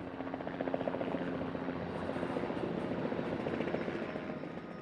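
Helicopter flying overhead, its rotor chopping in a fast steady pulse that swells and then fades near the end.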